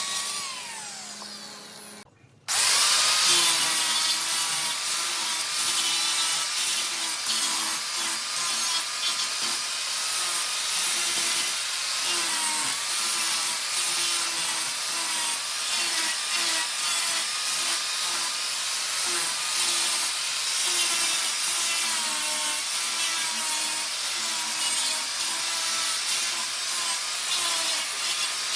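Wood lathe turning a workpiece while a tool rubs against the spinning wood, a steady rasping with a wavering whine. It starts after a falling tone and a brief break about two seconds in.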